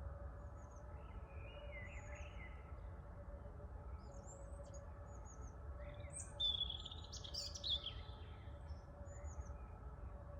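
Songbirds chirping: a short high call repeated about every second, with a louder run of calls about six to eight seconds in. Under them, a steady low rumble of wind and distant city noise with a faint steady hum.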